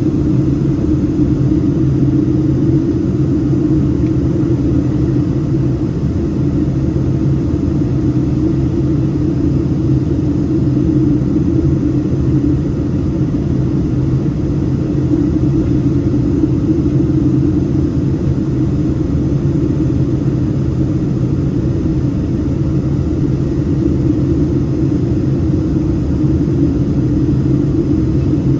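Boeing 767-300ER jet engines running with a loud, steady rumble and a constant low hum.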